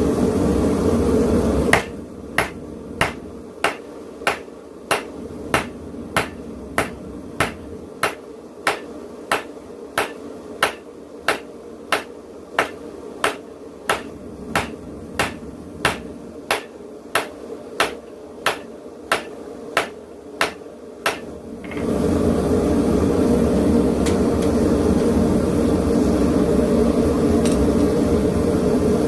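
Propane forge burner running with a steady rush, cut off about two seconds in by hand-hammer blows on a hot railroad spike on the anvil, about one and a half blows a second for some twenty seconds, as the blade is drawn out. The steady burner noise returns for the last seven seconds.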